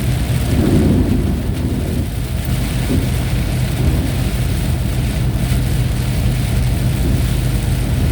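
Thunderstorm: steady rain with a low rumble of thunder underneath, swelling briefly about a second in.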